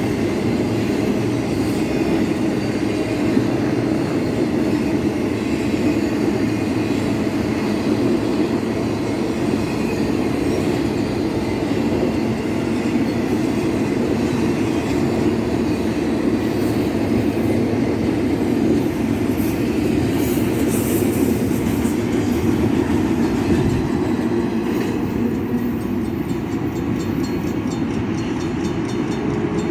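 Union Pacific intermodal freight train rolling past, a loud steady rumble of steel wheels on rail with some clickety-clack, easing off a little near the end.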